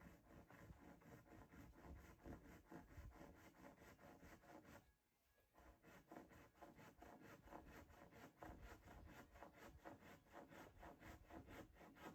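Fast, even scraping or rubbing strokes, about five a second, with a short break about five seconds in.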